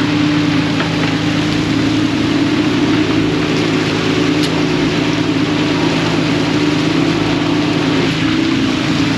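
Fishing boat's engine running steadily at a constant pitch, with a steady rush of wind and water over it.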